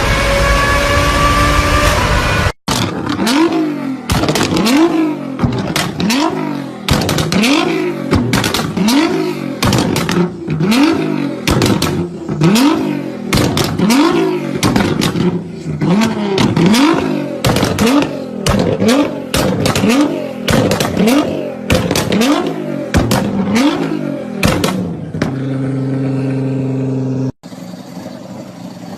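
Modified car exhausts in several short spliced clips, mostly one engine revved again and again, about once a second, each rev a quick rise in pitch, with crackling pops between revs. A brief steady tone comes near the end.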